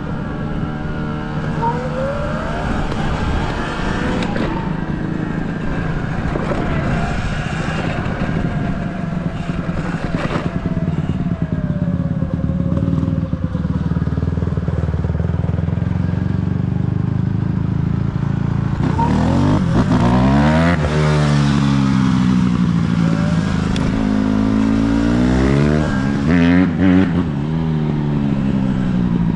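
Dirt bike engine running under way, its pitch rising and falling with the throttle, most plainly about two-thirds through and again near the end.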